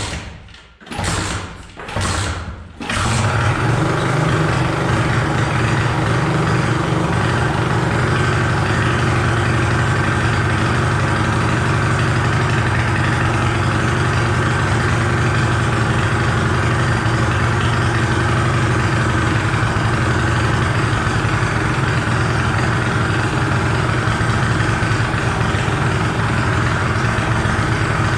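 Pit bike engine being kick-started: a few short cranking bursts, catching about three seconds in, then running steadily at idle.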